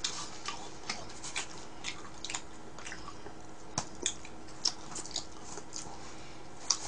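A person chewing pizza close to the microphone: irregular soft mouth clicks and bites, a few of them sharper. A faint steady hum runs underneath.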